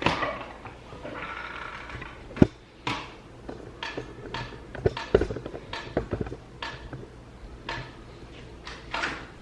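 Irregular handling noises: a series of short knocks and clicks with some rustling, and one sharp knock about two and a half seconds in.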